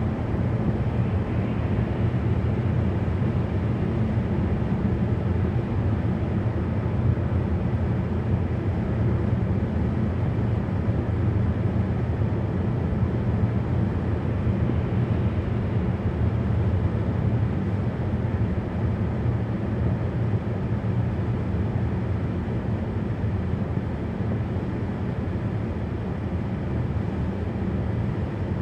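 Steady road and engine noise inside a car's cabin at highway speed: an even low rumble with no distinct events.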